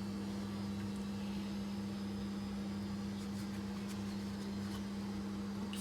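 A steady low electrical or mechanical hum, like a household appliance or fan running, with a few faint clicks and a sharp knock at the very end.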